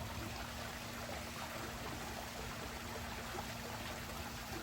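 Steady running, trickling water, with a faint steady hum underneath.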